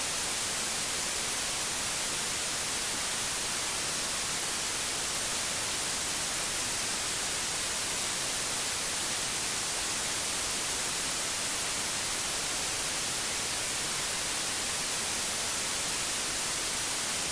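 Steady synthetic white noise: an even, unchanging hiss across the whole range, brightest in the highs.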